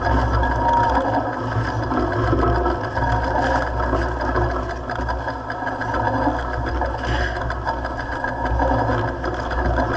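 Mountain bike descending a dirt trail: tyres on dirt with the chain and frame rattling over rough ground, over a steady low rumble of wind on the microphone.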